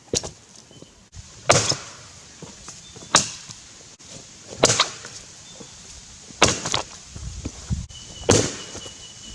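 Tassie pattern axe chopping into a Grey Gum log while bucking it, six sharp strikes at an even pace, about one every second and a half to two seconds.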